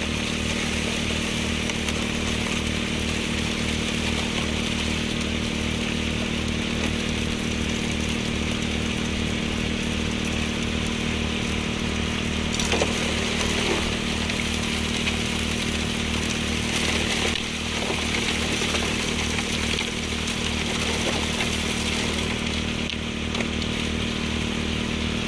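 Small petrol engine running steadily at constant speed, with water rushing through a sluice.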